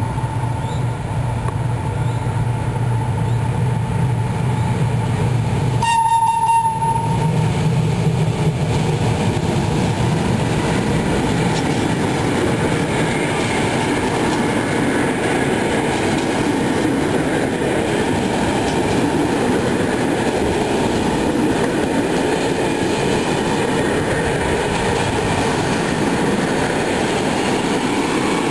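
Electric-hauled container freight train approaching and passing at speed. A steady high tone and a low hum run for about the first six seconds as the locomotive nears. Then comes the continuous rumble and clatter of container flat wagons rolling by close up.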